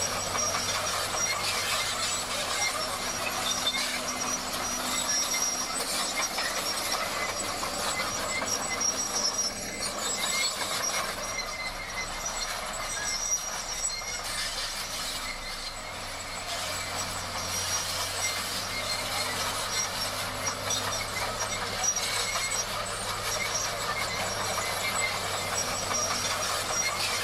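Komatsu D58 crawler bulldozer at work: its diesel engine runs steadily under the continuous clatter and squeal of its steel tracks.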